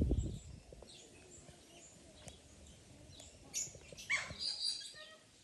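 Birds chirping: a few short, high calls and one quick swooping note from about three and a half seconds in. A low rumble dies away at the very start.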